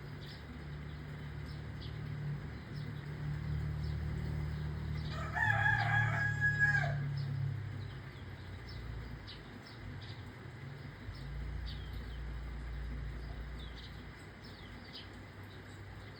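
A rooster crows once, about five seconds in: a single call of about a second and a half that rises and then holds. Small birds chirp on and off throughout over a steady low background noise.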